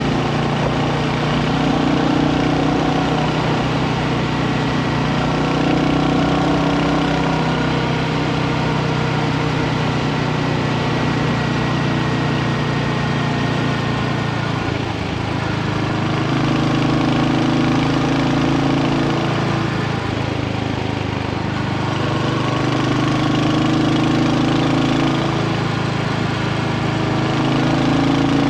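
Royal Enfield Hunter 350's single-cylinder 349 cc engine running steadily near idle, its level dipping and swelling slightly a couple of times.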